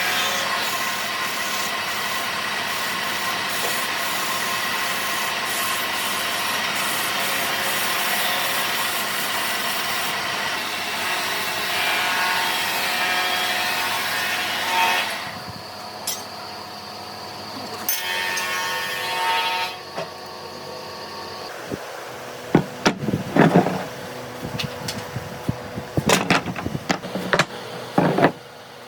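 A power tool working wood runs steadily for about fifteen seconds, then stops, with two short bursts after it. Near the end come a series of sharp knocks and taps on wood.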